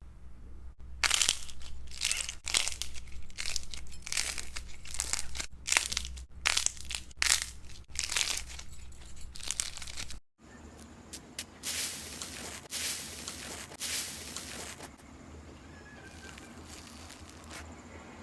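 Slime being squeezed and pressed by hand, giving a quick run of sharp crackles. After a cut about ten seconds in, a few more crackles, then a soft steady hiss.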